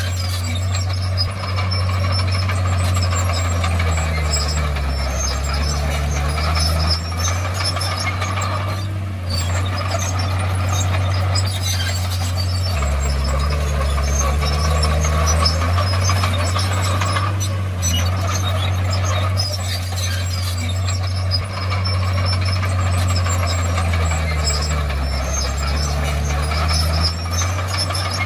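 Komatsu D51PX bulldozer's diesel engine working under load, its low note sagging and recovering three times as the load changes, with scattered high squeaks and clatter from the machine.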